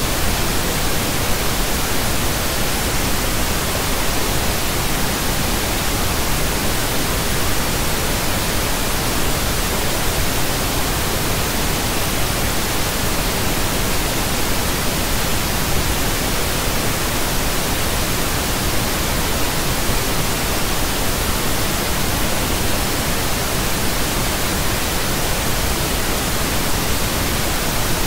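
Pink noise: a steady, even hiss with no change or break.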